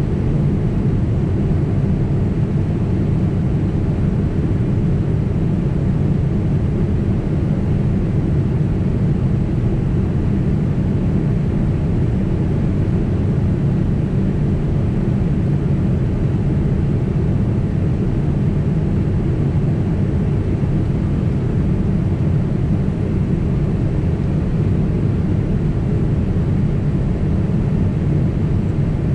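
Steady cabin noise of a Boeing 767 in flight: the engines and the airflow over the fuselage make a constant low rumble with a hiss on top.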